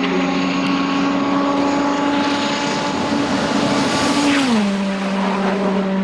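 Race car engine running at a steady high note, with a rushing swell that peaks about four seconds in as the pitch drops sharply, then holds steady at the lower note.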